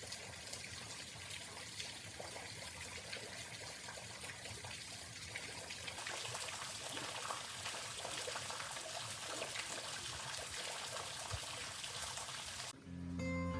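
Water trickling steadily, its sound shifting abruptly about six seconds in. Plucked guitar music comes in near the end.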